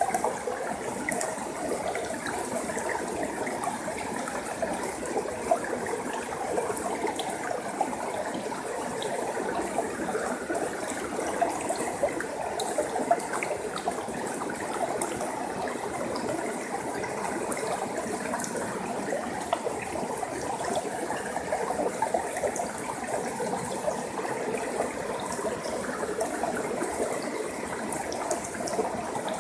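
Water of a forest stream flowing and trickling steadily, an unbroken babble.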